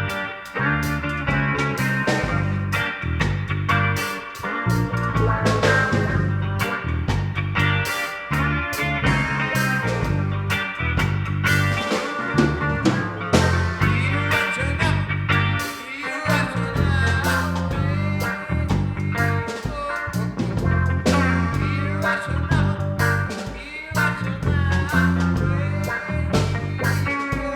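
A band playing an instrumental passage: a steady bass line, drums and guitar.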